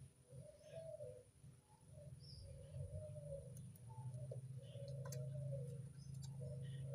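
Local puter dove cooing: a run of low, soft coos, its classic anggungan call, repeated phrase after phrase.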